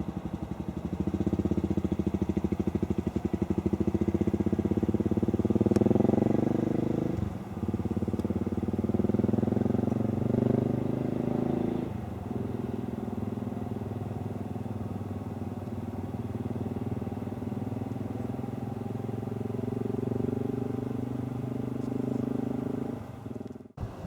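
Aircraft engines running: a steady low drone made of several low tones, with brief dips about 7 and 12 seconds in.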